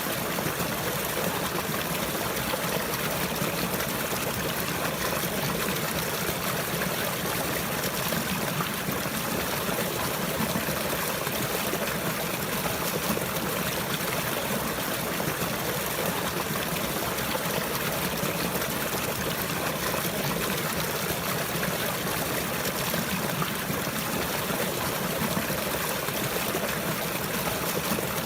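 Running water flowing steadily, an even trickling, rushing sound without breaks.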